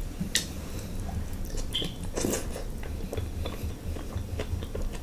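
Close-miked eating at a seafood meal: a few sharp clicks and clatters from handling crab shell or cutlery, with soft chewing in between.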